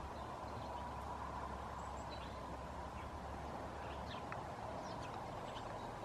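Faint, short, high bird chirps scattered over a steady outdoor background hiss, with a low hum that stops about four seconds in.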